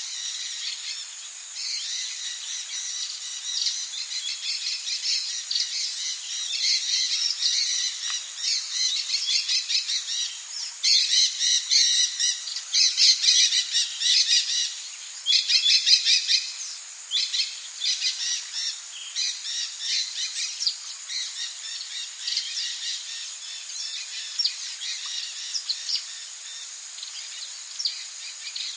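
Tropical rainforest birds calling in quick, densely repeated chirps and squawks, busiest and loudest in the middle, over a steady high hiss.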